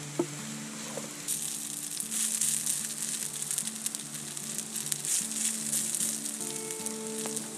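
Hash browns, steak and mushrooms sizzling in a skillet, the frying getting louder a little over a second in.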